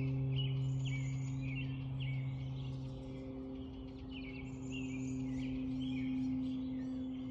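Songbirds singing in the morning, short chirping phrases repeating every second or two, over a steady low hum.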